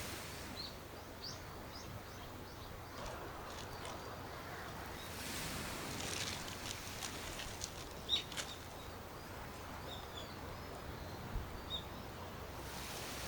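Outdoor ambience: scattered short, high bird chirps over a steady background hiss, with a swell of rushing noise in the middle and another near the end, and a few sharp ticks.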